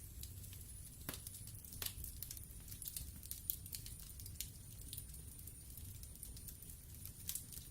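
Wood fire burning in a fireplace, crackling with frequent irregular pops and snaps over a low rumble.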